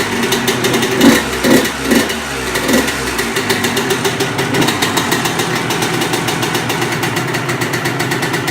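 1998 Honda CR125's single-cylinder two-stroke engine warming up after a cold start: blipped four times with the throttle in the first three seconds, then idling steadily with a rapid, even firing beat.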